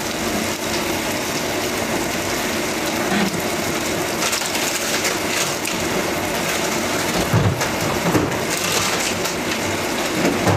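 Food frying in hot canola oil in a pot on a gas stove: a steady crackling sizzle, with two soft knocks about two-thirds of the way through.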